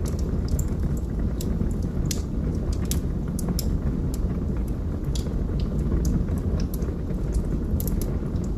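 Wood fire burning in a fireplace: a steady low rumble of the flames with irregular sharp crackles and pops from the burning wood, several a second.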